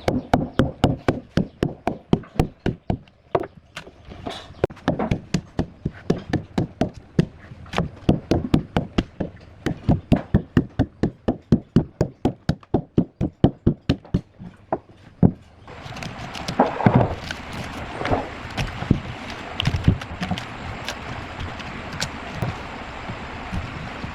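Wood being struck by a hand tool: a fast, even run of sharp knocks, about three a second. The knocks stop after some fifteen seconds and give way to a steady hiss with a few scattered thuds.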